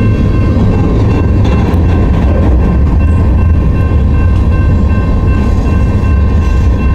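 A train running: a loud, steady low rumble with a steady high whine held over it.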